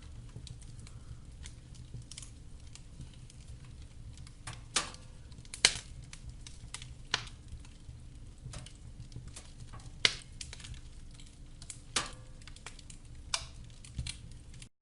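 Wood fire crackling in a fireplace: irregular sharp snaps and pops over a steady low rumble of the flames, the loudest pops coming about five and ten seconds in.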